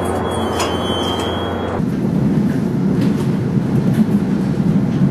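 Steady hum of a commuter train standing at a platform; about two seconds in it changes abruptly to the low rumble of riding inside a moving commuter rail coach, wheels running on the track.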